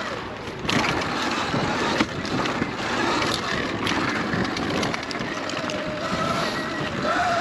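A 2019 Sur-Ron electric dirt bike being ridden over dirt jumps, with wind rushing over the lav mic. There are a few sharp knocks about one and two seconds in, and a faint rising motor whine near the end.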